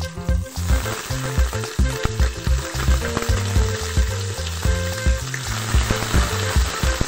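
Hot oil with whole spices sizzling in a pot as raw chicken pieces are added and stirred; the frying hiss swells about a second in and holds. Background music with a steady beat plays under it.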